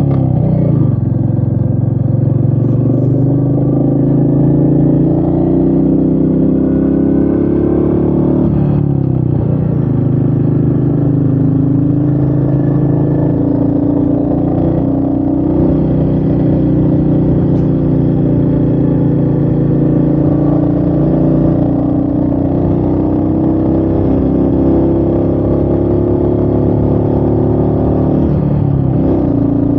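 Royal Enfield Meteor 350's single-cylinder engine running under load with wind on the microphone. The engine's pitch drops sharply about nine seconds in and again near the end, then climbs steadily again.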